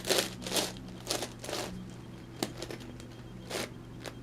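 Layers of an 11x11x11 Rubik's cube being turned by hand: short plastic scraping and clicking in about half a dozen bursts, the loudest in the first second.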